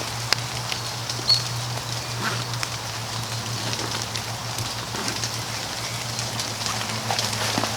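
Wood campfire crackling and popping in the rain, over a steady patter of rain; a few sharp pops stand out in the first second or so.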